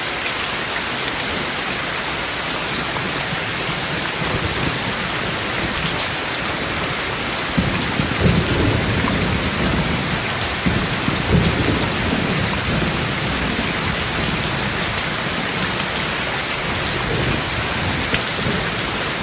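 Steady heavy rain hissing throughout, with a low rumble of thunder swelling about a third of the way in and dying away around two thirds of the way through.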